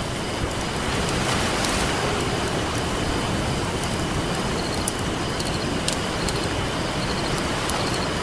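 Ocean waves washing on a beach as a steady rushing surf, with a campfire crackling over it in a few sharp, scattered pops.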